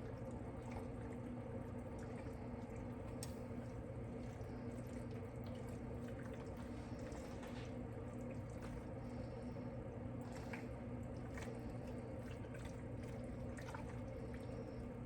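Pasta being stirred in a creamy sauce: scattered soft clicks and wet, squishy sounds over a steady low hum.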